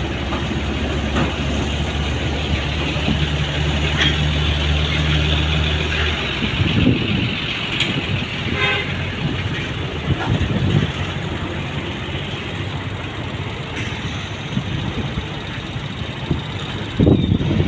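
Highway traffic: a heavy vehicle's engine drones steadily for about six seconds, then gives way to the rushing noise of buses and trucks going past. A vehicle horn toots briefly about halfway through.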